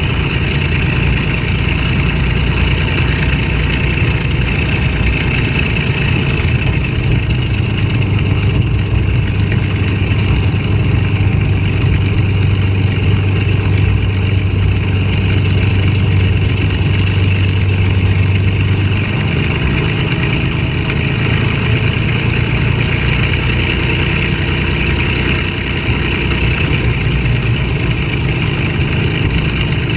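Packard-Merlin V-1650-7 V-12 piston engine of a P-51D Mustang running steadily, heard from inside the cockpit. Its low drone steps up in pitch about two-thirds of the way through.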